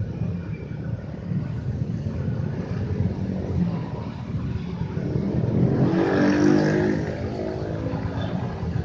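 Diesel locomotive hauling a passenger train, a steady low rumble that swells about six seconds in with a rising engine tone as it comes closest, then eases off.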